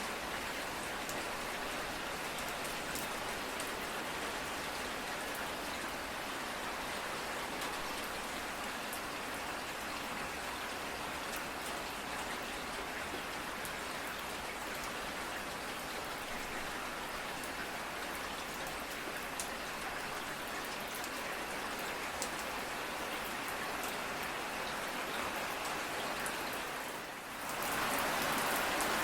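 Steady rain falling, with scattered sharper drop ticks through it. Near the end it dips for a moment and comes back louder.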